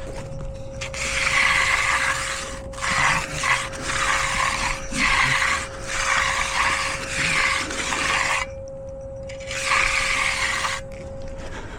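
Steel finishing trowel scraping over fresh concrete in repeated strokes, about a second each, with a brief pause near the end: the steel-trowel pass that follows edging. A faint steady tone hums underneath.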